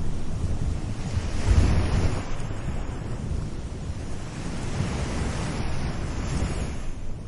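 Gentle sea waves washing onto a beach, two swells of surf noise a few seconds apart, over a low rumble.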